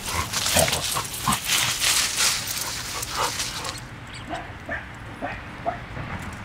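Dachshunds playing and chasing each other, giving short yips and whimpers. A busy patter of quick scratchy sounds runs through the first few seconds, then thins out.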